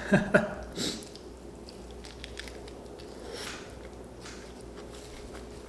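A person biting and chewing food close to the microphone. A few short, sharp mouth sounds come in the first second, then quieter chewing follows.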